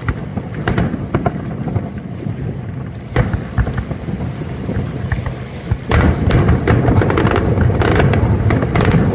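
Aerial fireworks bursting: a run of booms and sharp cracks over a low rumble. About six seconds in it turns into a louder, dense barrage of rapid crackling reports.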